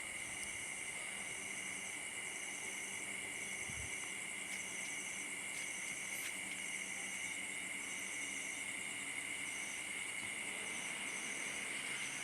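Insects chirping: several steady high trills, with one higher chirp that switches on and off in a regular rhythm, about one to two pulses a second.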